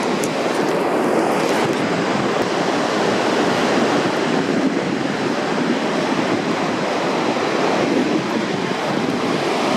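Pacific Ocean surf breaking on the beach: a steady, unbroken rush of waves.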